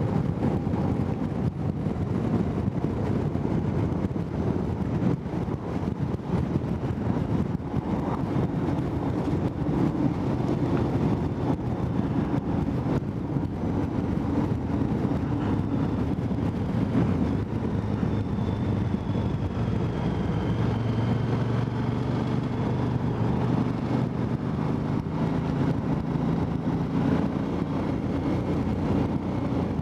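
KTM 990 Adventure motorcycle's 999 cc V-twin engine running under way, a steady drone whose note shifts about twenty seconds in.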